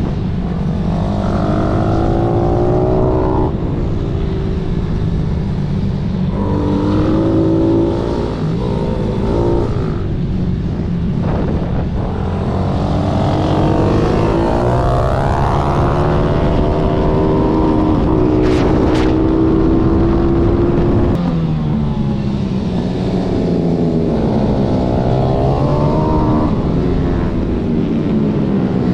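Pitbike engine revving hard. Its pitch climbs, then drops sharply, over and over as the throttle is worked.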